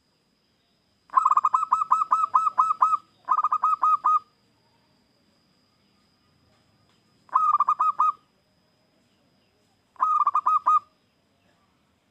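Zebra dove (perkutut) cooing in rapid staccato strings of notes: one long phrase of about a dozen notes, a short one after it, then two short phrases a few seconds apart. A faint steady high whine runs underneath.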